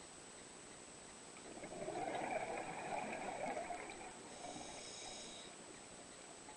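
Scuba diver exhaling through a regulator: a burst of bubbles rising past the microphone for about three seconds, starting a second and a half in, followed by a brief higher hiss.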